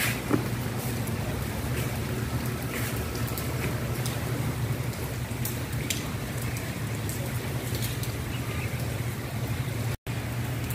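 Steady rain falling on a wet tiled courtyard, an even hiss with a few scattered drips, over a low steady hum.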